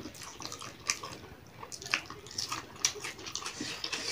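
Close-up eating sounds: wet chewing and lip smacking as chicken and rice are eaten by hand, with irregular sharp mouth clicks, a few of them louder.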